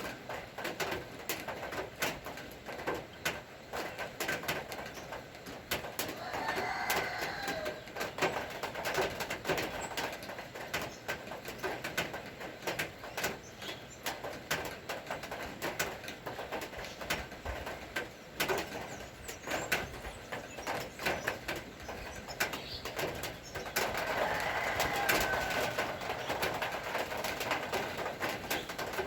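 Rain falling, with many scattered drips hitting hard surfaces, and a bird calling twice, about a quarter of the way in and again near the end.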